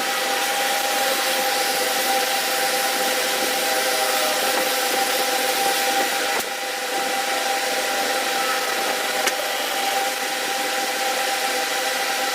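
A machine running steadily: a constant motor whine over a rough rubbing hiss, with a brief dip in level about six seconds in.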